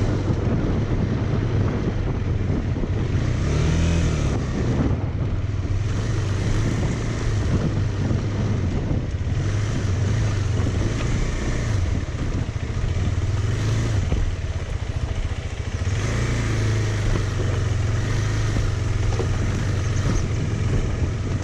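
Motorcycle engine running while riding, its pitch rising and falling a few times with the throttle, over a steady rush of noise.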